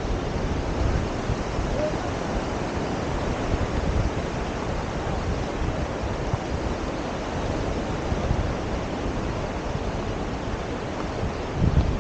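Surf washing on a sandy beach, with wind buffeting the microphone in gusts, the strongest near the end.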